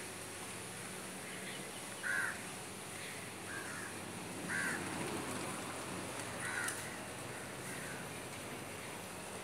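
A bird calling with short calls, about five times at uneven spacing, over a steady hiss of outdoor background noise.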